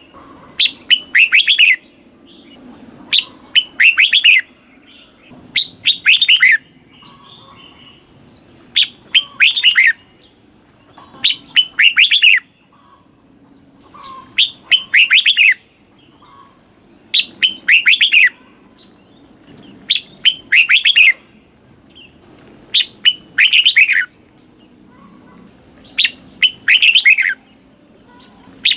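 Red-whiskered bulbul singing: short, bright phrases of quick falling whistled notes, repeated about every two seconds with brief pauses between.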